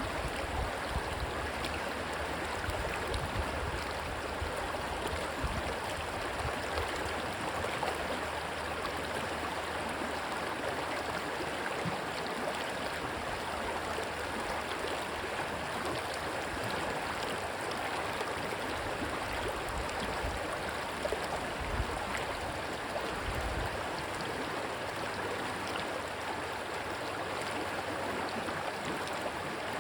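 Steady rush of a stream's flowing water. Low gusts of wind on the microphone come and go in the first few seconds and again about two-thirds of the way through.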